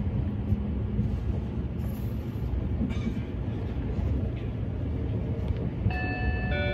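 Running noise of an E257 series electric train heard from inside the car: a steady low rumble of wheels on rails. Near the end a melody of clear electronic tones begins.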